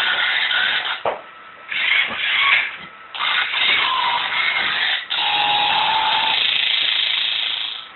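Toy Dalek's electronic sound effects: harsh, buzzing noise in four bursts, the last one the longest, cutting off near the end.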